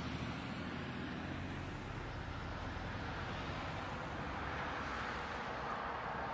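Steady motor-vehicle noise: a low engine hum under an even road-noise hiss, with no impacts or sudden events.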